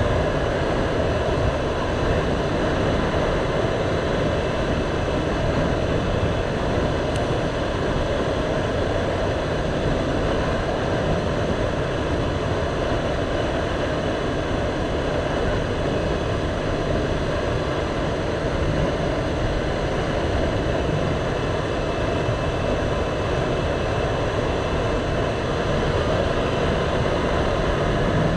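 Motorcycle riding at a steady speed: a constant engine drone mixed with wind and road noise over the camera's microphone.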